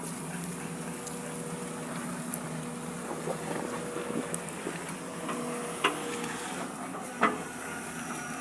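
Excavator engine running steadily, with two sharp knocks about six and seven seconds in.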